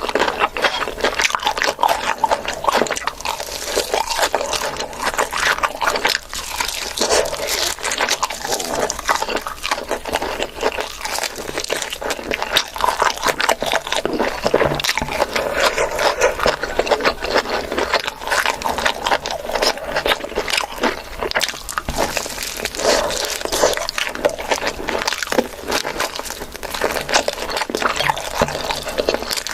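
Close-up eating sounds: continuous chewing and mouth smacking, made of many short, irregular wet clicks.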